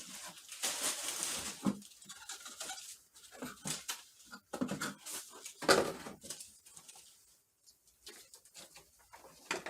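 Unboxing packaging being handled: irregular rustles and light knocks, with one sharper knock a little over halfway through.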